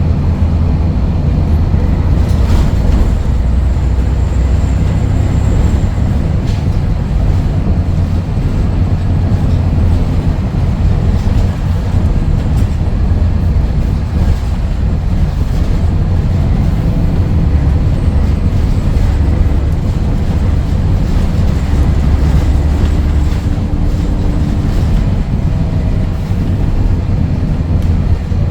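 Scania DSC11 six-cylinder diesel engine of a Scania L113CRL bus pulling under way, a loud, steady low drone with road rumble.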